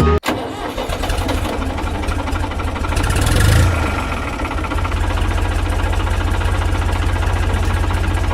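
Engine idling with a rapid, even knock. It swells briefly about three seconds in, then settles back to a steady idle.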